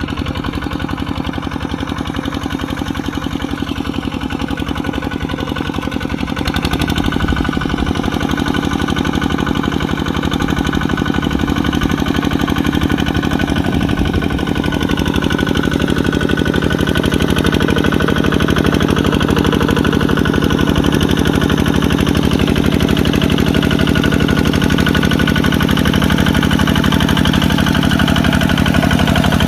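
Kubota RT140 single-cylinder diesel engine running steadily, its rapid even firing beats clear, growing louder about six or seven seconds in.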